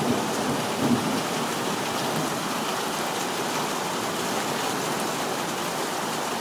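Heavy rain with hail pelting down in a severe thunderstorm, the hail by its sound about dime size. It is a steady downpour noise with a couple of sharper hits about a second in.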